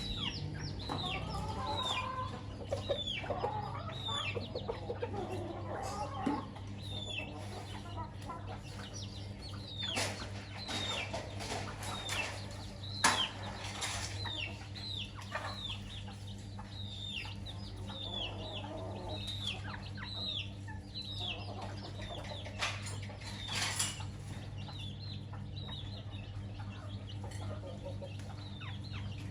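A chicken family: chicks peeping over and over in short, high, falling calls, with a hen clucking low in the first few seconds. A few sharp clicks, the loudest about 13 seconds in, and a steady low hum underneath.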